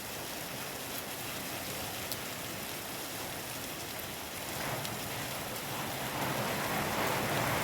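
Heavy rain falling steadily, growing a little louder near the end.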